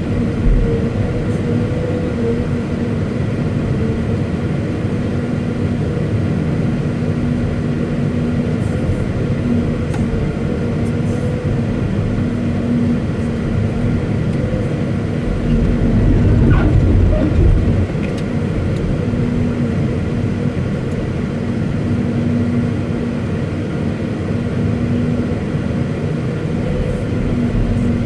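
Caterpillar 329E hydraulic excavator running, a steady diesel engine hum with a constant tone. It swells louder for a couple of seconds past the middle, as the machine takes load.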